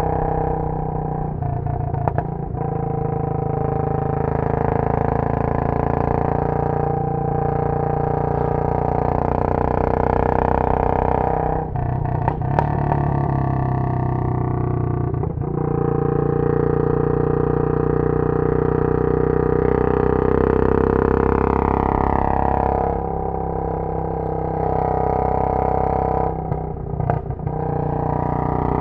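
Royal Enfield Bullet 500 single-cylinder engine running through a Punjab long bottle silencer under riding load, heard onboard. Four brief breaks in the engine note mark gear changes, and the pitch falls a little past two-thirds of the way through as the bike slows.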